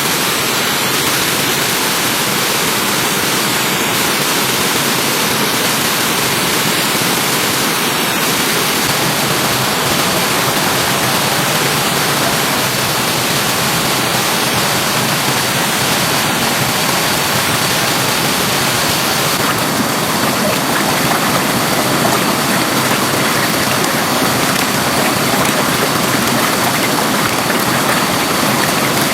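Stream water rushing and splashing steadily, a loud, even hiss of flowing water in a stream swollen after rain.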